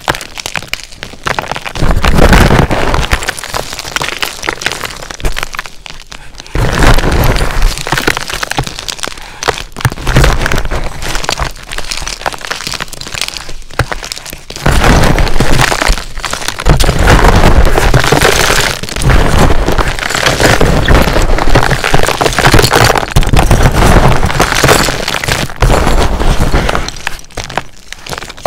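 Dyed SPRI gym chalk being crushed by hand: a dense, crunchy crackling of crumbling chalk that comes in waves of squeezing, loudest in the second half.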